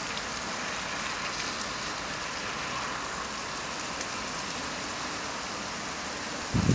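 Steady rain hiss, then near the end a sudden low buffeting of wind on the camera's built-in microphone.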